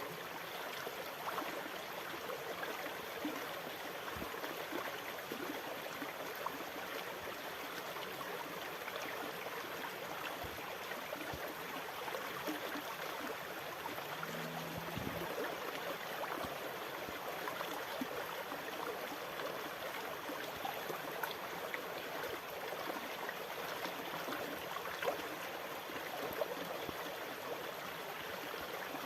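Steady rushing, gurgling water, a continuous seawater wash without distinct wave surges.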